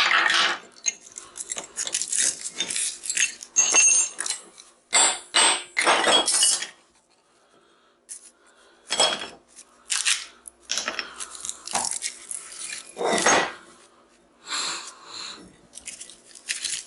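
Steel transformer core laminations clinking and clattering as the core is knocked apart and the loose plates are handled: a quick run of sharp metal clanks, some ringing briefly, with a short pause about seven seconds in.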